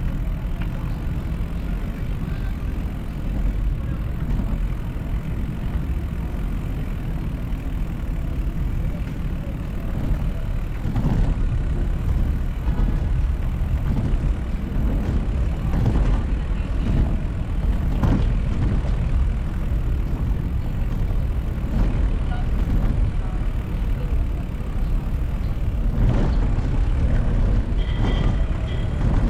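City street traffic heard from a moving bicycle: a steady low rumble with motor vehicles passing close by again and again, and a brief high tone near the end.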